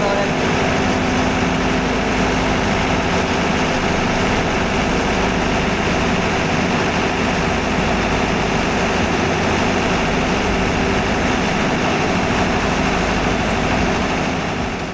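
Ship's auxiliary diesel engine running steadily, a dense, even machinery noise.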